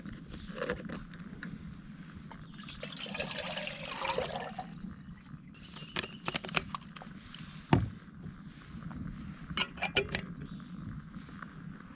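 Liquid poured for a couple of seconds, then a series of small clicks and knocks, one louder than the rest, from vessels or utensils being handled.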